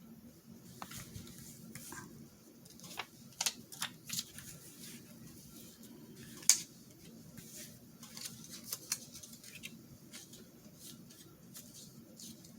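Paper cut-outs being handled and moved about: scattered crisp rustles and light taps, with the sharpest tap about six and a half seconds in.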